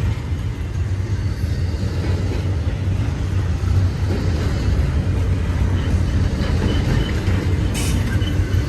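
Double-stack intermodal freight train rolling past, its container cars making a steady low rumble on the rails. A single brief click comes near the end.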